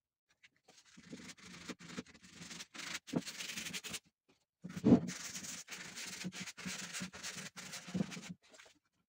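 Hand sanding on the wooden frame of a bentwood chair: quick back-and-forth strokes of abrasive on wood in two runs, with a short pause about four seconds in. A sharper knock comes just after the pause.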